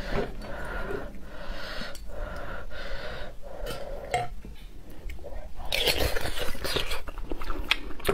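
Close-miked chewing of roasted bone marrow with its minced-meat topping: soft, moist mouth sounds and small clicks, with a louder, noisier stretch about six seconds in.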